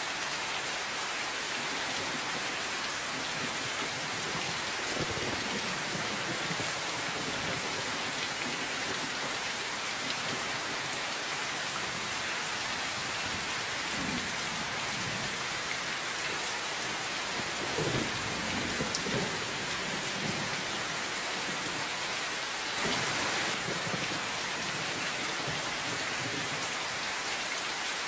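Steady rain falling in an even hiss, with low rumbles of distant thunder rolling in a few times.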